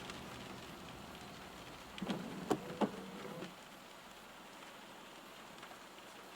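Rain on a car, a steady hiss with a few sharp ticks of drops about two to three seconds in. A low rumble underneath falls away about halfway through.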